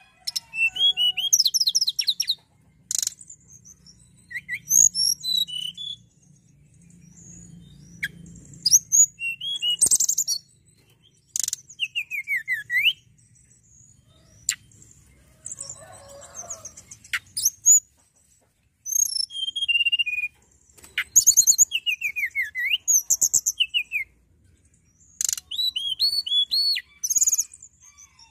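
Tledekan gunung songbird singing: phrases of quick high chirps, rapid trills and short whistled notes that slide down and up, with brief pauses between phrases.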